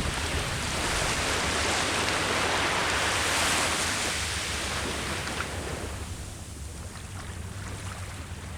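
Sea waves washing onto the shore: a wave swells to a peak a few seconds in, then draws back and fades near the end, with a low wind rumble on the microphone underneath.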